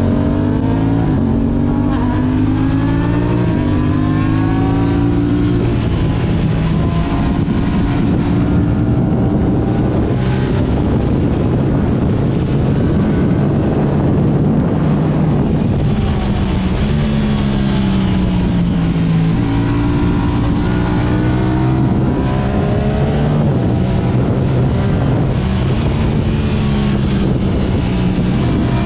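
Yamaha R6 inline-four engine through an Akrapovic exhaust, revving hard as the bike is ridden: the engine pitch climbs and drops several times as it accelerates and slows, over a steady rush of wind and road noise.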